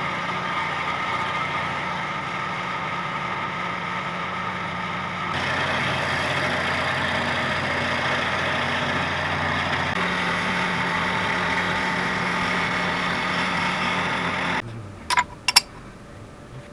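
Milling machine running with its cutter squaring up a block of UHMW plastic: a steady machine hum and cutting noise that changes pitch abruptly twice and cuts off about 14 seconds in, followed by a few sharp clicks.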